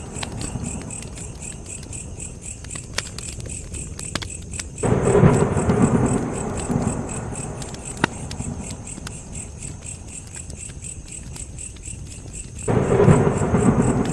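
Campfire crackling with scattered sharp pops over a steady, evenly pulsing chirp of crickets. About five seconds in and again near the end, a sudden deep surge of noise comes up and fades over a few seconds.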